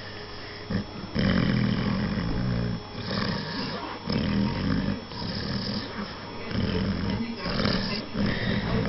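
American bulldog puppy snoring and growling in his sleep: about four drawn-out, low rumbling snores a second or two apart, the first and longest about a second in.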